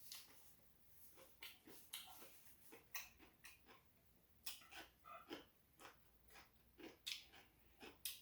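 Faint chewing and mouth sounds from eating rice cake ramen: irregular wet clicks and lip smacks, about two a second.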